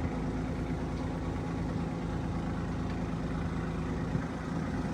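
Boat engine running steadily at low speed, a constant low drone with no change in pitch.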